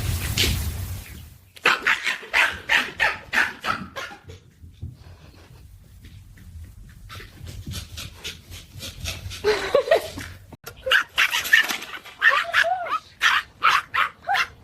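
A dog barking in quick runs, about four barks a second, with a pause in the middle and a few short whimpers near the end.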